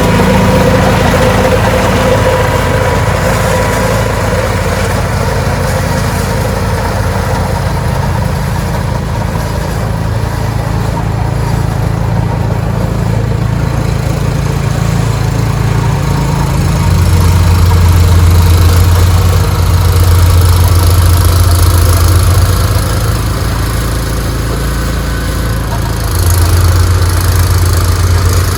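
Ariens 624E snowblower's single-cylinder engine running steadily, growing louder for several seconds past the middle and again near the end.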